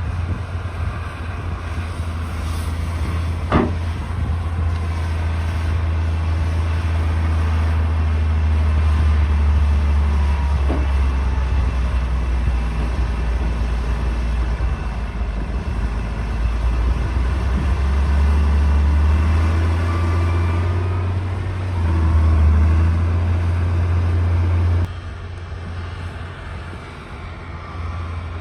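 D60 bulldozer's diesel engine running steadily under load with a deep low rumble, with a sharp metallic knock a few seconds in. The engine sound drops abruptly and becomes quieter about 25 seconds in.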